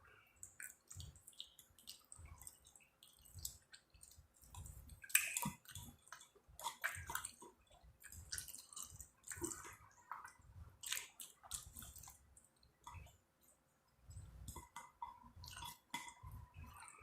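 Close-up mouth sounds of someone eating: faint, irregular wet chewing with small lip smacks and clicks.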